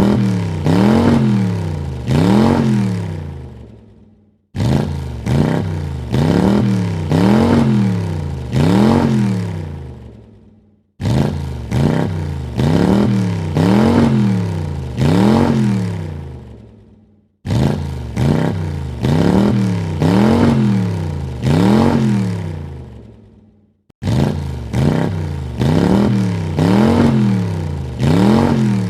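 Car engine revved in quick blips: about four sharp rises and falls in pitch, then the sound dies away. The same sequence of blips repeats identically about every six and a half seconds.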